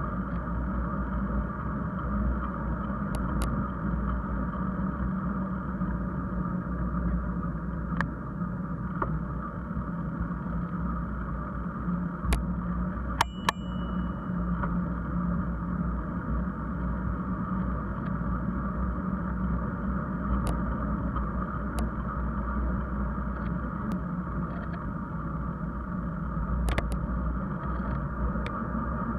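Steady low rumble of wind and rolling noise on the camera while cycling, with scattered sharp clicks and rattles.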